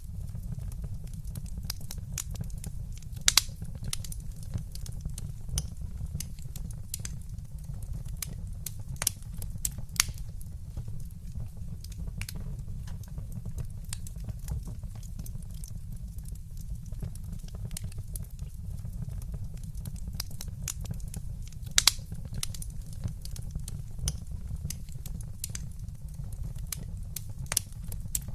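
Fire in a fireplace crackling, with scattered sharp pops over a steady low rumble. A few louder pops stand out, about three seconds in, at about ten seconds, and twice near the end.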